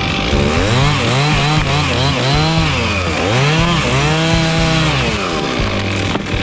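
Chainsaw engine revving up and down repeatedly, its pitch rising and falling several times, over a steadier low engine drone.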